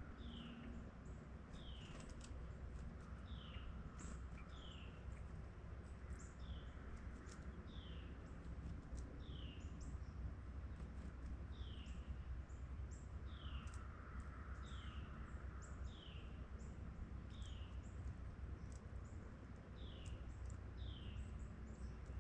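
A bird calling a short, falling note over and over, roughly once a second, faint against a steady low rumble of outdoor background noise.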